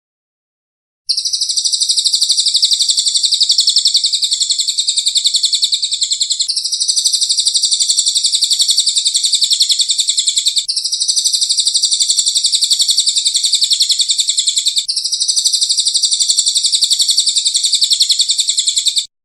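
A songbird's rapid, high, continuous trill, played as a looped recording: four stretches of about four seconds each with abrupt joins between them.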